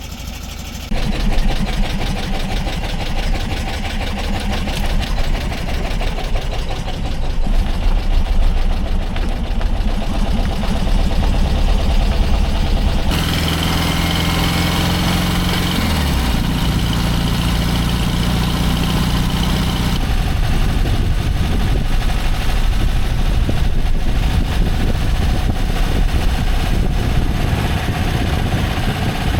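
1968 VW Type 2 bay-window bus's 1776 cc air-cooled flat-four engine running, in several short clips, its note dropping in pitch partway through. It now has deeper rocker covers, so the rockers no longer tap against them.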